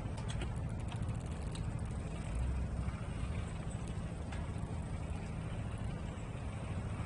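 Steady low engine rumble from passing traffic, with a quick run of light clicks in the first second and a half.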